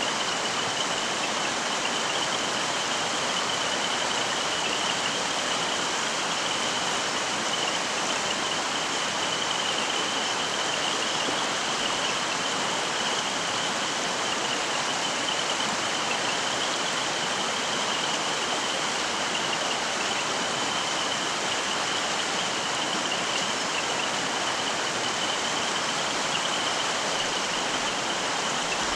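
Mountain stream flowing: a steady, even rush of water, with a thin steady high-pitched tone running through it.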